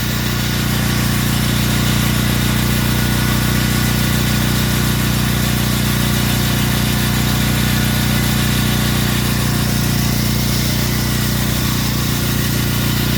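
An engine running steadily at a constant speed: an even low hum that does not change.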